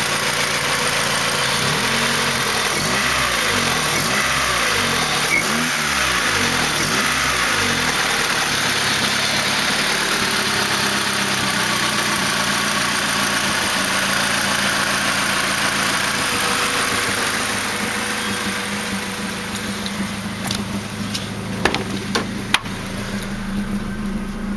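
Freshly rebuilt Honda D16Z6 four-cylinder engine idling smoothly and steadily at about 950 rpm through an aftermarket Buddy Club Spec D exhaust. It grows quieter about two thirds of the way through, and a few sharp clicks come near the end.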